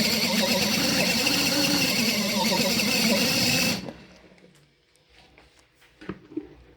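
Mini foldable washing machine running with a steady motor hum and churning, washing dish towels; it cuts off abruptly about four seconds in, followed by a few faint knocks.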